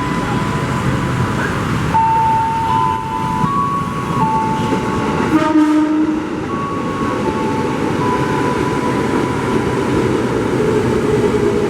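Train running through the station with a steady rumble and a short horn blast about five and a half seconds in. Throughout, electronic tones step between a few pitches.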